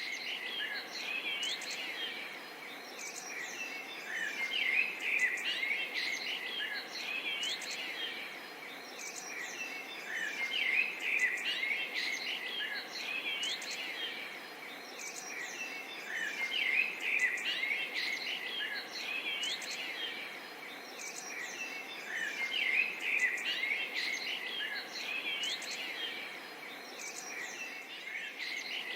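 Forest birdsong: many small birds chirping and calling over a faint steady insect chorus. The bird calls swell and fade in waves about every six seconds.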